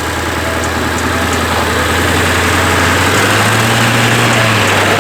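Off-road vehicle's engine running at low revs while crawling over rock. The pitch picks up briefly about three seconds in and eases back near the end.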